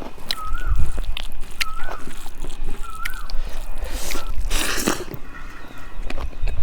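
Close-miked eating: biting and chewing rice and fish curry, with small wet clicks and sloshing. A short wavering whistle repeats in the background about every second and a half, and there is a brief loud rush of noise a little past halfway.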